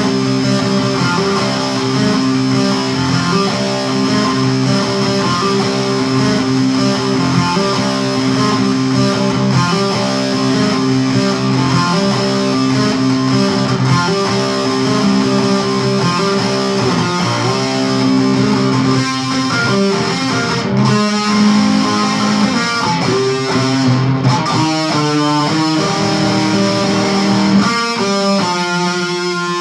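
Electric guitar playing a slow ballad: held chords ringing for most of the time, then single picked notes over the last third.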